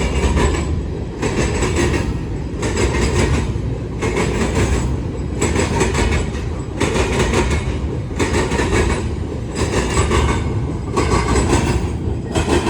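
CSX freight train of grain hopper cars rolling past, a steady low rumble with a clattering burst of wheels over the rail joints about every second and a half as each car goes by.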